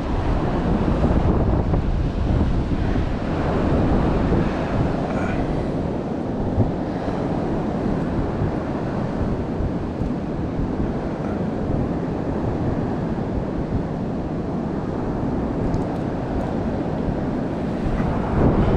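Strong wind buffeting the microphone over the steady wash of sea surf.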